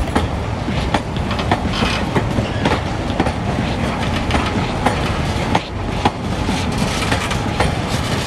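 Narrow-gauge passenger carriages rolling past on the track: a steady rumble with irregular clacks of the wheels over the rails.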